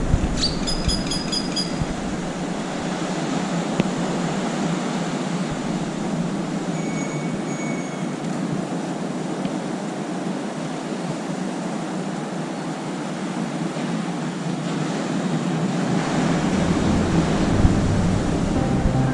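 Steady rushing outdoor noise, with a short run of high chirps near the start and two faint thin whistles about seven and eight seconds in.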